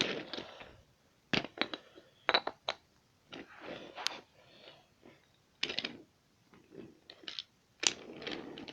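Wooden toy train pieces being handled on a wooden track: irregular sharp clicks and short clattering knocks, some in quick clusters, with quiet gaps between.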